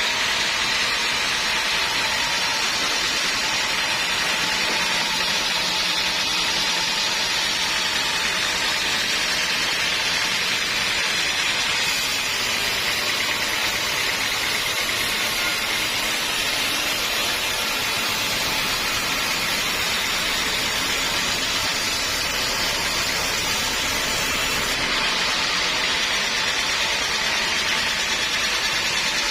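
Sawmill machinery running steadily with a continuous noisy whine. Its sound changes for about thirteen seconds in the middle, getting hissier and fuller, then returns to the earlier sound near the end.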